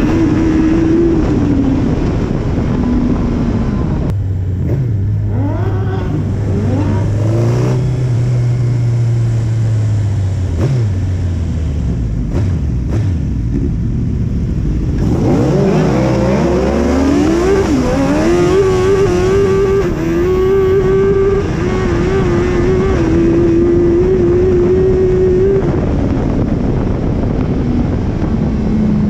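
Suzuki Hayabusa streetfighter's inline-four engine heard from on board while riding. The revs rise sharply about halfway through, hold steady at speed for several seconds, then drop as it eases off near the end.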